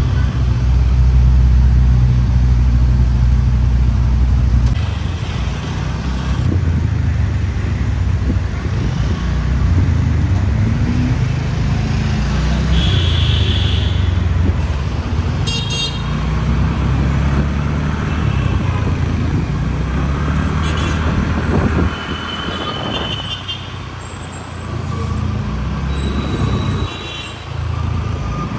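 Ferrari SF90 Stradale's twin-turbo V8 running at low speed in city traffic, a low steady rumble loudest in the first few seconds. Other vehicles' horns toot several times over the rumble of traffic.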